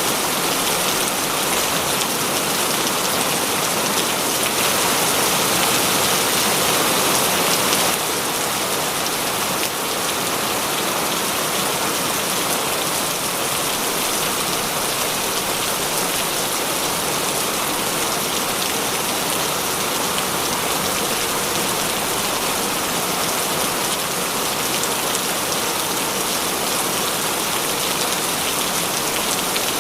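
Heavy rain falling steadily: a dense, even hiss of drops striking surfaces. It eases slightly about eight seconds in.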